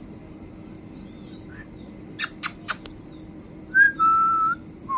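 Three quick sharp clicks, then a few loud, high whistled notes: a short one, one held steady for about half a second, and one rising note near the end.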